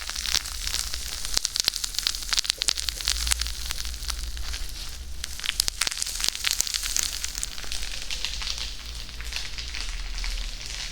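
Close-miked ASMR trigger sounds: a dense, irregular crackle of small clicks, over a low steady hum.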